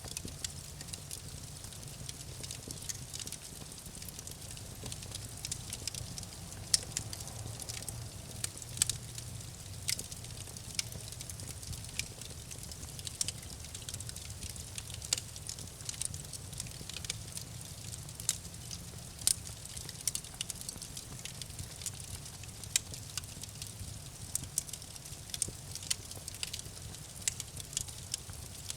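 Campfire crackling: irregular sharp pops and snaps from burning wood over a low, steady rumble of the flames.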